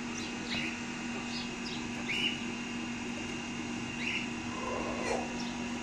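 Small birds chirping in the background, short high chirps every second or two, over a steady low hum.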